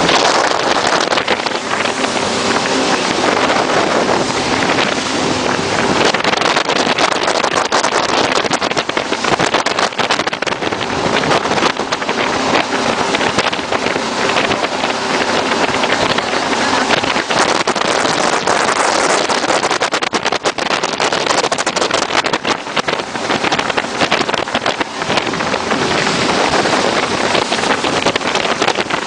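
Jet boat under way: the engine and rushing water make a loud, steady noise. Wind buffets the phone's microphone throughout.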